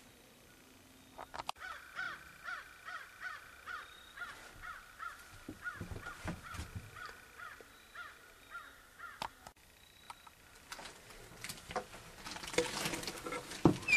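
A bird calling in a long run of short, repeated calls, about three a second, with a few sharp knocks among them. Near the end comes a louder clatter and rustle of handling.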